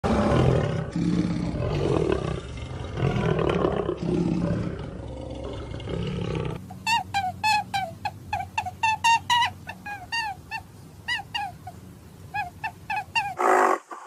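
Deep, rough growling of a big cat in irregular pulses for about six and a half seconds. It breaks off abruptly into a fast run of short, high, clear chirping calls, several a second, until just before the end.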